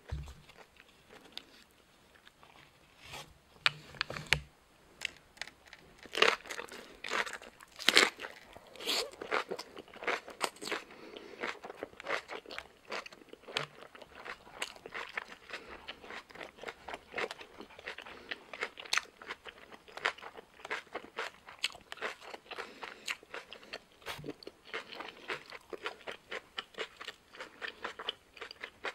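Close-miked biting and chewing of a bossam wrap, boiled pork with spicy shredded kimchi in a raw napa cabbage leaf, the crisp cabbage crunching between the teeth. A few faint clicks come first, then steady crunching starts about six seconds in and is loudest over the next few seconds.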